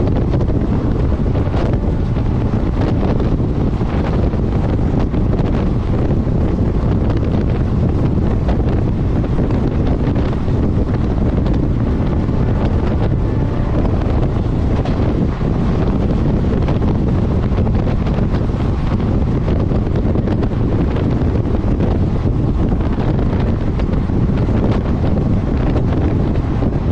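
Wind buffeting the microphone over the steady running noise of a passenger train moving at speed.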